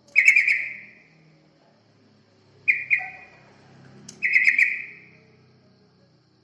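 Yellow-vented bulbul (trucukan) calls: three short, bubbly, chattering phrases about a second or less each, a second or two apart, the kind played as a lure call to draw the bird in.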